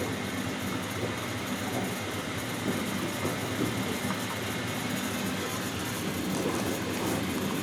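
Hoover Dynamic Next washing machine in the wash phase of a cotton cycle, its drum turning a 3 kg load: a steady motor hum and faint whine with soft, irregular thuds as the wet laundry tumbles.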